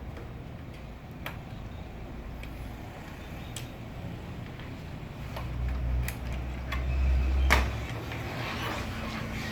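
Low motor hum that swells for about two seconds midway, with a few sharp clicks and a loud knock as the swell ends.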